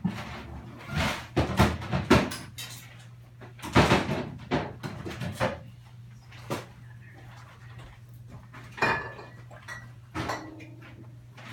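Irregular knocks and clatters of things being handled in a small room, such as cupboard doors opening and closing, over a steady low hum.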